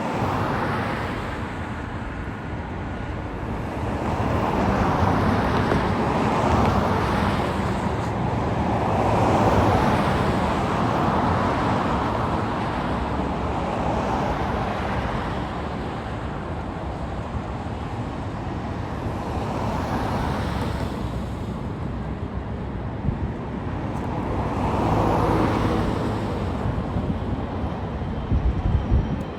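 Road traffic passing steadily, with several vehicles swelling up and fading away one after another.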